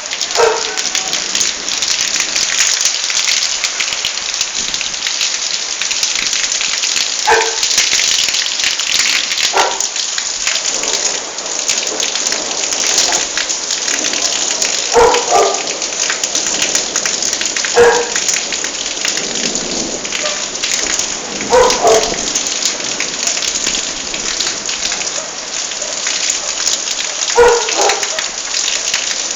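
Heavy rain falling steadily during a thunderstorm, with a dog barking now and then, single short barks every few seconds.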